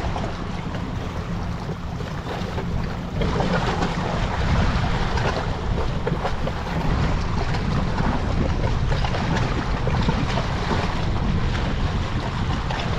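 Wind buffeting the microphone: a steady rushing rumble that grows louder about three seconds in.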